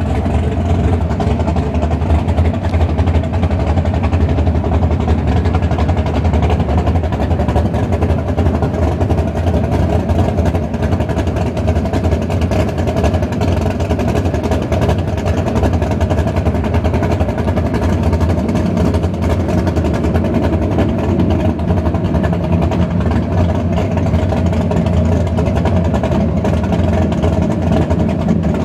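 Vehicle engine running steadily, a deep, even hum that holds without clear revving up or down.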